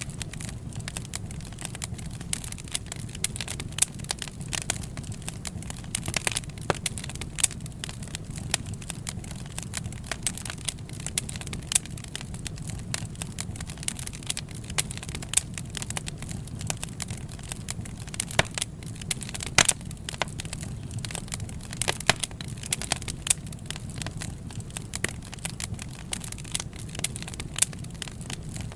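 Wood fire crackling and popping, with irregular sharp snaps over a steady low rumble of flames.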